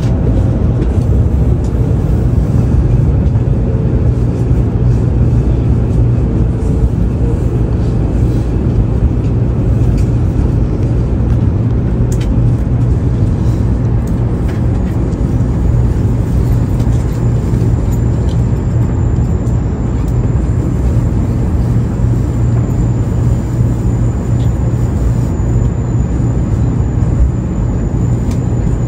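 Shinkansen bullet train running alongside the platform: a loud, steady rumble, with a whine that falls in pitch over the first few seconds.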